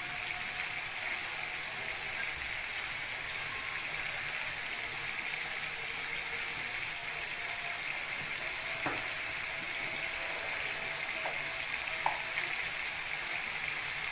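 Tomato-and-spice masala frying in a nonstick pan, giving a steady sizzle, with a few light clicks in the second half.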